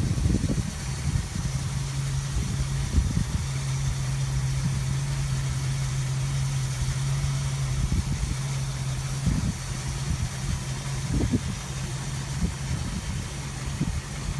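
1959 DeSoto Firedome's 383 V8 idling steadily: a low, even hum and rumble that weakens about two-thirds of the way through.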